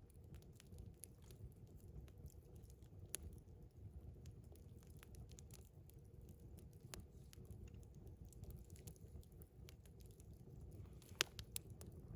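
Wood fire crackling faintly, with scattered small pops and ticks over a low steady rumble; one sharper pop near the end.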